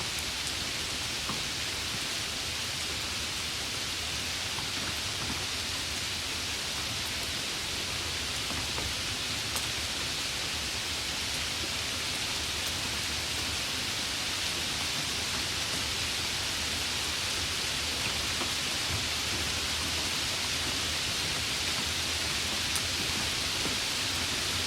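Steady heavy rain, an even hiss with a few faint drop ticks and no thunder.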